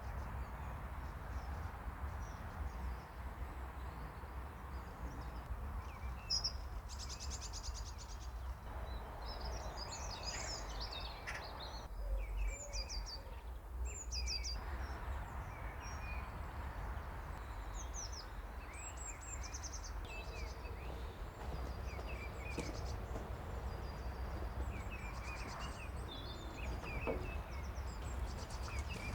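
Small birds chirping and calling on and off, with short high chirps and trills, over a low steady outdoor rumble.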